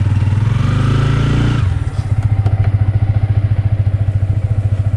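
Motorcycle engine running close by, held at slightly raised revs and then dropping back to a steady, pulsing idle about one and a half seconds in.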